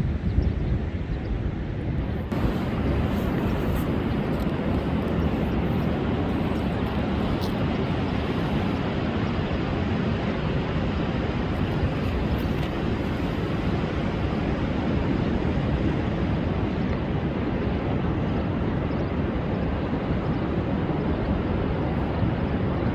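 Storm-driven surf breaking on a sandy beach: a steady, low roar of waves that does not let up.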